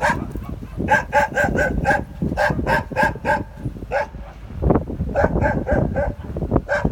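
Animal calls: quick runs of short, high, evenly pitched calls, about four or five a second, in three bursts with short pauses between them.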